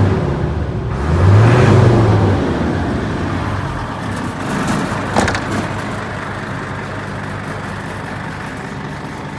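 Hino Ranger truck's diesel engine blipped once, its note rising and falling back, then running steadily at idle. A single sharp click comes about five seconds in.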